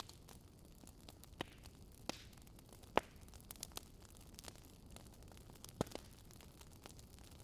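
Campfire wood crackling with scattered sharp pops, the loudest about three seconds in, over a faint steady hiss.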